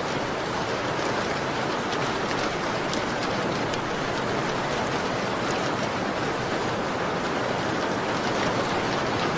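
Steady rain on a window, an even hiss with faint scattered ticks of drops.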